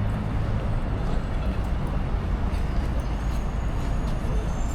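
Steady city street traffic noise: a low rumble of passing cars and buses.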